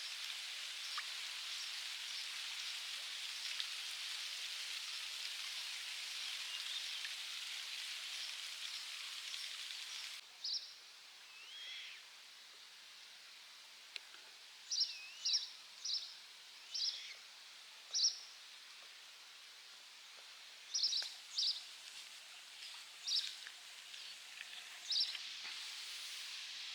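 A steady high hiss for about ten seconds, then a sudden change to a quieter background with short, high bird chirps, about a dozen, some sliding in pitch.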